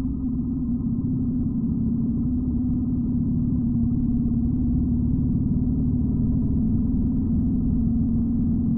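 1941 BMW R75 motorcycle's flat-twin engine running at a steady pace while under way.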